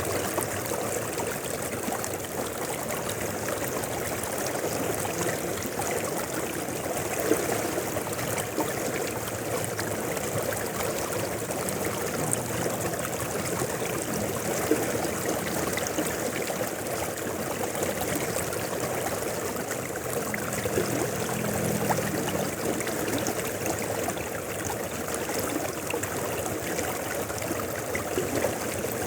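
Mountain river flowing: a steady rush of water with many small splashes.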